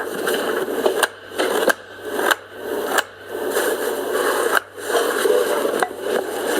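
Knife chopping baby carrots on a cutting board: a sharp knock roughly once a second, with scraping noise between the cuts.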